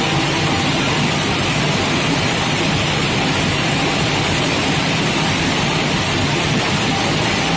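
Steady industrial machinery noise from an induction melting furnace installation: an even, rain-like rushing hiss over a low rumble, with a faint steady tone.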